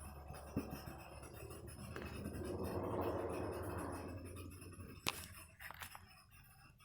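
Handling noise from a laptop being worked on: soft scraping and rubbing that swells and fades, with a few sharp clicks, the loudest about five seconds in.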